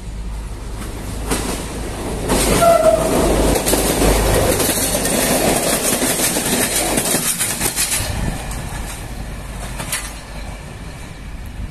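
Diesel passenger railcar passing close by, its wheels clattering rapidly over the rail joints. It is loudest from about two seconds in and fades after about eight seconds. A short horn note sounds near three seconds in.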